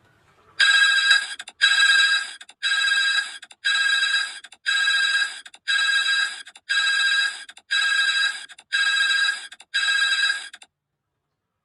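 Telephone-style ringing: ten bright, buzzing rings about one a second, which stop suddenly.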